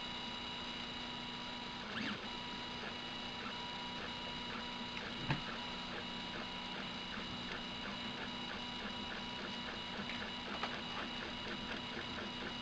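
Prusa i3-style 3D printer running, its stepper motors giving a steady whine of several tones, with short quick moves ticking about three or four times a second in the second half. A knock comes about two seconds in and a sharp click a few seconds later.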